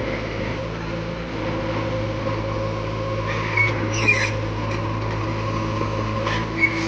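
JCB 3DX backhoe loader's diesel engine running steadily, with a few brief metallic clanks about halfway through and again near the end.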